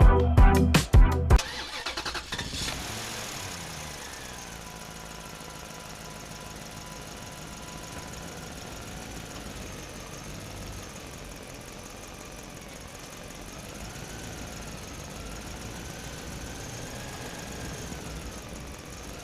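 A few beats of electronic music, then a vehicle engine running steadily, its pitch dropping over the first few seconds and a faint whine above it wavering slowly.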